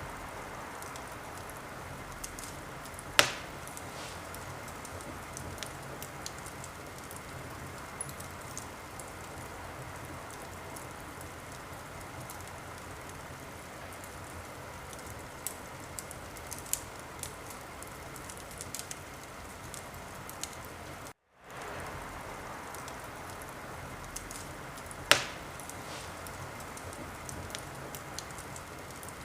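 Wood fire crackling in a fireplace: a steady hiss of burning with scattered small snaps and two loud pops, about three seconds in and near the end. The sound cuts out for a moment about two-thirds of the way through.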